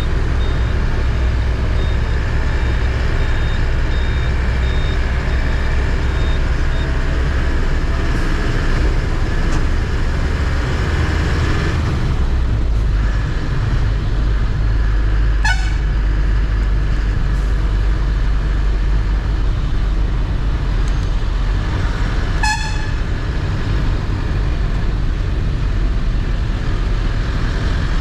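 Truck engine rumbling steadily as it drives through traffic, with two short horn toots, about halfway through and again about seven seconds later. A faint high beep repeats through the first several seconds.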